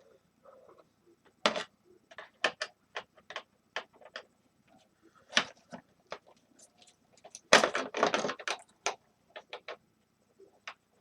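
Scattered clicks and knocks of hands and tools working on the parts of a space heater being taken apart, with a louder burst of rattling clatter about seven and a half seconds in.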